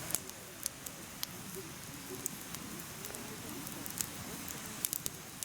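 Firewood burning in a mesh fire stand, crackling with sharp pops every second or so over a steady hiss, with a few pops close together near the end.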